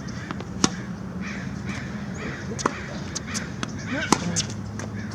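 Tennis balls being hit in a baseline rally: three sharp racquet strikes about one and a half to two seconds apart, with lighter ball-bounce knocks between them, over a steady low hum.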